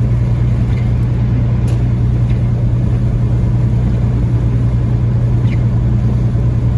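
Steady low drone of a Peterbilt 579 semi truck's diesel engine, with road noise, heard inside the cab while cruising at moderate speed under a heavy load.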